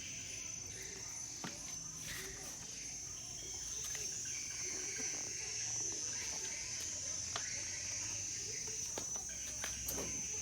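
Steady high-pitched chirring of crickets, with a few sharp clicks scattered through it.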